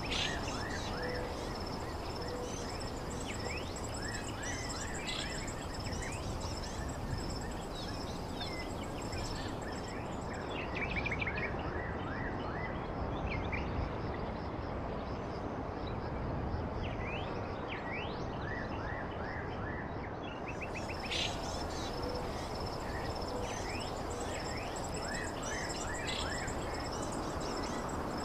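Birds chirping in short scattered calls and quick sweeping notes over a steady outdoor background hiss, with a continuous high pulsing trill underneath.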